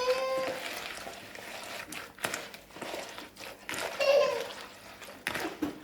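Chopped lemons and orange being rubbed together by hand with sugar and mint, a rustling, scraping noise with a few sharp clicks. A child's voice calls out briefly three times.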